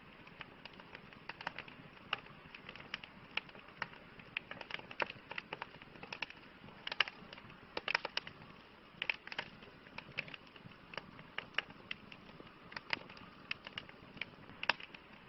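Campfire crackling: irregular sharp pops and snaps of burning wood, several a second, over a faint steady hiss, with a few louder pops now and then.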